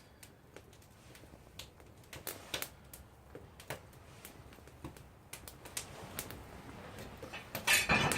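Wood campfire crackling, with irregular sharp pops and clicks that grow more frequent toward the end. A louder rustling burst comes near the end.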